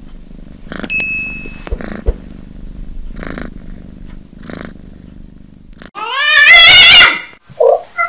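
Domestic cat purring steadily, then about six seconds in a single loud meow that rises in pitch and lasts about a second.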